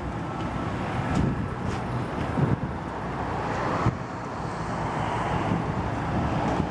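Steady outdoor noise with a low rumble and wind on the microphone, swelling and then cutting off sharply about four seconds in.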